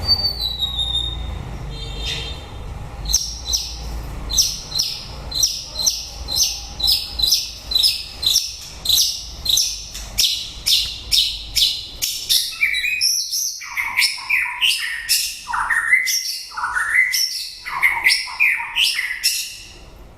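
White-rumped shama singing: a fast run of high repeated notes, about three a second, then lower, more varied whistled phrases through the last several seconds.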